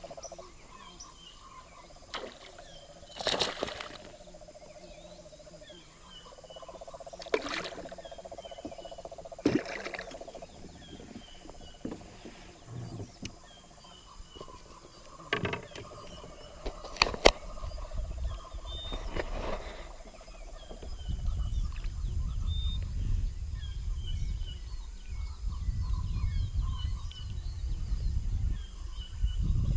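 Amazon rainforest ambience: a droning animal chorus that comes and goes, with small high chirps throughout. Several sharp knocks are scattered through it, and a low rumble builds in the last third.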